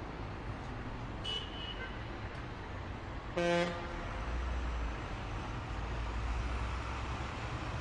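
Steady road-traffic ambience with a single short car-horn toot about three and a half seconds in.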